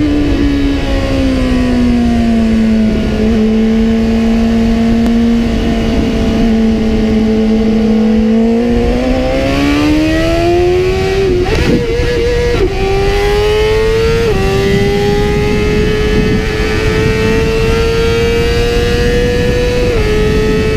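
BMW S1000RR inline-four sportbike engine at track speed, with heavy wind rush on the microphone. Its pitch falls over the first few seconds and holds steady for a while. About halfway through it climbs under hard acceleration, broken by quick upshifts that each drop the pitch, two of them close together past the middle and one near the end.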